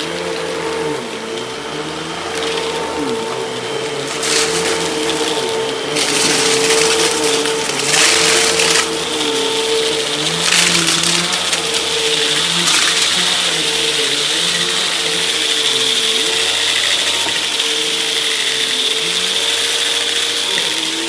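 Hoover vacuum cleaner running under test, its motor giving a steady whine under a rushing suction noise that swells and eases as it is worked, with a few louder surges.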